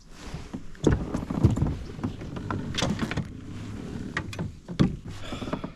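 Knocks and scrapes on a fishing kayak's hull: several sharp thumps among rustling, as gear and a freshly caught fish are handled aboard.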